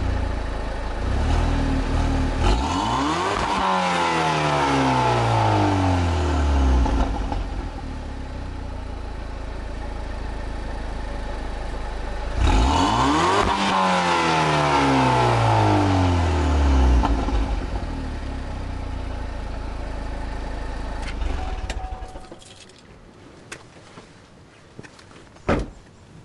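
Pontiac Solstice GXP's turbocharged 2.0-litre four-cylinder, with a catless downpipe, idling and revved twice, each rev climbing quickly and settling back slowly to idle. The engine is shut off a few seconds before the end, leaving a couple of sharp clicks.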